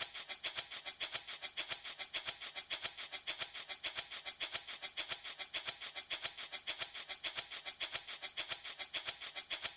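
Handmade wooden baby rattle shaken steadily in an even rhythm, about four shakes a second, with a bright, hissy rattle.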